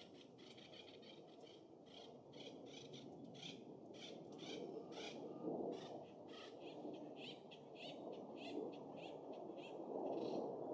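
A songbird calling in a long run of short, harsh notes, about three a second, with wind rushing beneath that gusts louder midway and near the end.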